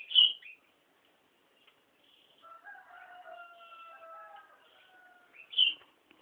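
Sooty-headed bulbul giving two short, loud calls, one right at the start and one near the end. In between, a rooster crows once, fainter, for about two and a half seconds.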